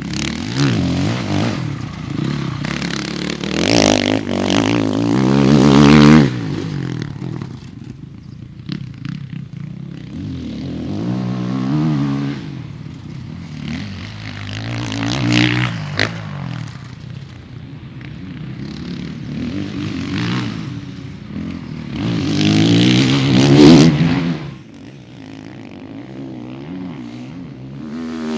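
Motocross bikes revving hard on a dirt track, engines rising and falling in pitch as they pass in several swells, the loudest about six seconds in and again near the end.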